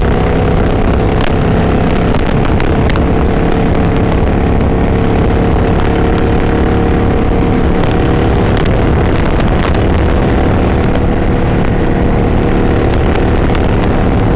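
Kawasaki Vulcan 900 Classic LT's V-twin engine running under way at a steady pitch as the motorcycle cruises.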